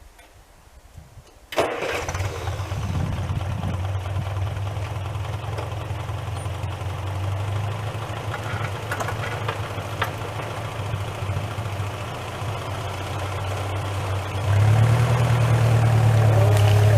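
An engine starts suddenly about a second and a half in and runs steadily with a low hum, getting louder a couple of seconds before the end.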